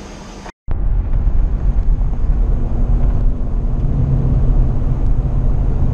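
Pontiac Firehawk's V8 engine and exhaust running while driving, a loud steady low drone that starts abruptly after a brief cut to silence about half a second in. Before the cut there is quieter steady vehicle noise.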